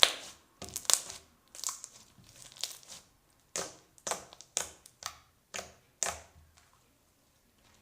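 Slime squeezed and pressed by hand for ASMR, making a series of sharp pops and crackles. After a few seconds the pops come crisply about twice a second, then stop.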